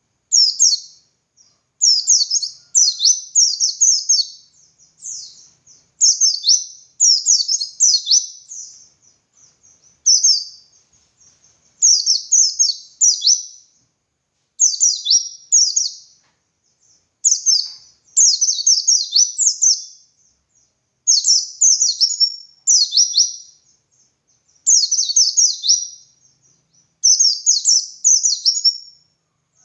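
White-eye (pleci) singing in full song: short, high-pitched phrases of rapid downward-sweeping notes, one after another with brief pauses in between.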